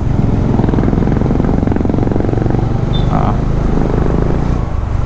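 Single-cylinder Bajaj Dominar motorcycle engine running steadily under way, recorded close to the rider, with one brief high tone about three seconds in.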